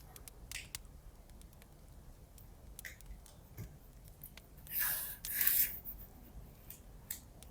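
Paper and washi tape being handled at a desk: scattered soft ticks, then two brief rustling swishes about five seconds in.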